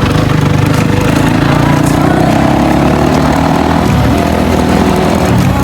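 Dirt bike engine running under load while riding, its pitch dipping and rising once about four seconds in.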